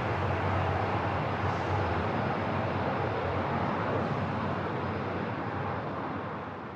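Steady airport ambience: an even background rumble and hiss with no distinct events, starting to fade out near the end.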